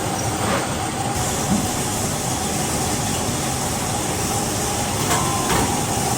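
Steady workshop machinery noise with a faint constant hum, broken by a few sharp metallic clicks about half a second in and again near the end.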